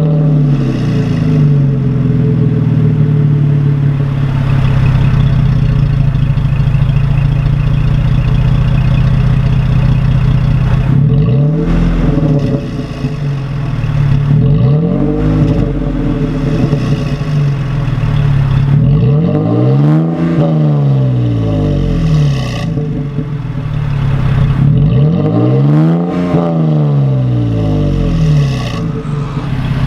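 2017 Toyota Tacoma's 3.5-litre V6 running through an MBRP 3-inch single-exit aluminized cat-back exhaust: a steady idle, then from about eleven seconds in a series of throttle revs that rise and fall back, two smaller ones followed by two higher ones and another starting near the end.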